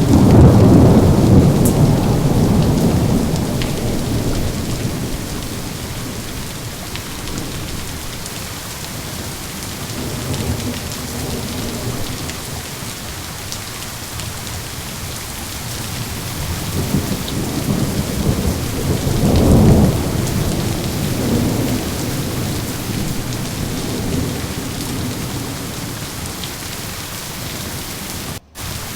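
Steady rain with rolling thunder. A loud rumble at the very start fades away over several seconds, and a second rumble builds up and peaks about two-thirds of the way through. The sound cuts out for a split second near the end.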